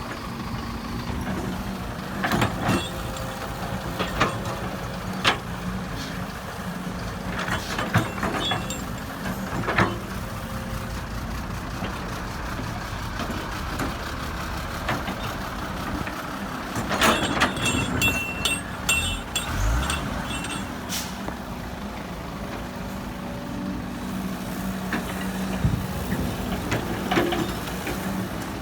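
Heavy diesel machinery running steadily, with scattered clanks and knocks. A little past the middle comes a flurry of knocks with high squealing tones.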